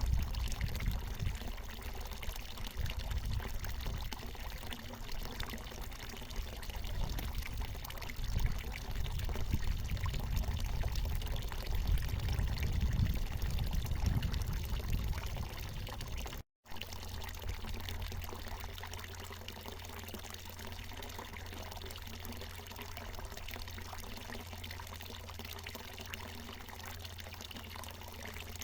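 Water from a natural mountain spring pouring steadily, a constant splashing trickle. A low uneven rumble under it stops at a brief dropout about sixteen seconds in, after which the flow sounds more even.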